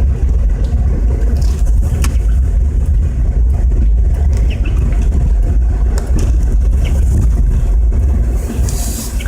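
Steady low rumble of a car driving through snow, heard from inside the cabin: engine and tyre noise, with a few light knocks.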